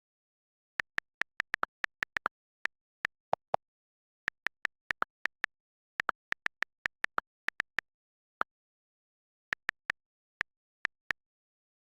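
A series of about thirty-five short, sharp clicks, all of the same pitch, in quick irregular runs with dead silence between them.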